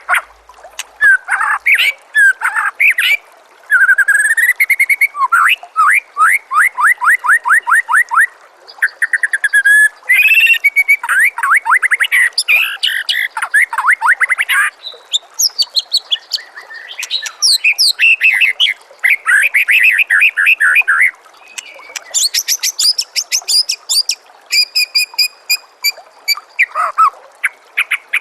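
White-rumped shama singing a long, varied song: phrase after phrase with hardly a break, many of them fast runs of repeated notes and quick rising and falling whistles.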